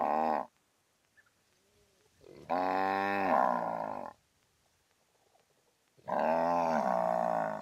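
Cow mooing: the tail of one moo, then two long moos a few seconds apart, each lasting about one and a half to two seconds and sliding down in pitch at its end.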